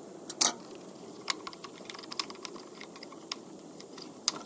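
Irregular small clicks and knocks of tools and hard plastic, with a louder knock about half a second in and another near the end, as a screw is taken out and the plastic cover of a Stihl BR600 backpack blower is worked off.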